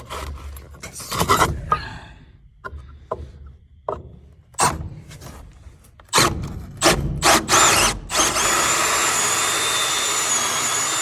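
Handling knocks and clicks, then a few short bursts of a power drill. About eight seconds in, a hole saw in the drill starts cutting steadily through a scrap plywood board, with a high whine over the cutting noise.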